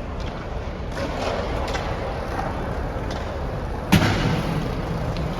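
A single sharp thump about four seconds in, over a steady low rumble.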